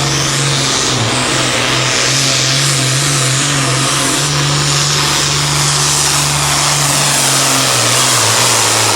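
International 1466 pulling tractor's turbocharged diesel engine running hard at full throttle under load during a pull, loud and steady. The engine note sags briefly about a second in and falls in pitch near the end as the run winds down.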